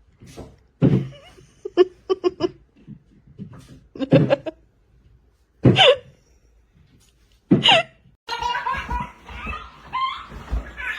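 People laughing in several short, loud bursts with pauses between them; near the end it gives way to a steadier stretch of voice-like sound.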